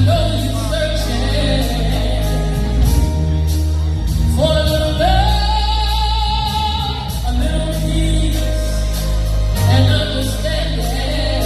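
Live gospel music: singers backed by a band with bass and drums, including one long held sung note in the middle.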